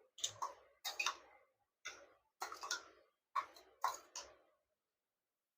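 A spoon stirring onion raita in a bowl, clicking and scraping against the bowl in about nine irregular strokes, then stopping a little over four seconds in.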